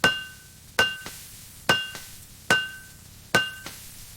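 Blacksmith's hammer striking metal in a steady rhythm: five evenly spaced blows a little under a second apart, each leaving a short metallic ring.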